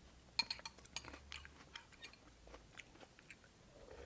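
Chewing of crisp cucumber slices from cold cucumber soup: a run of faint, short crunches and mouth clicks, the sharpest about half a second in.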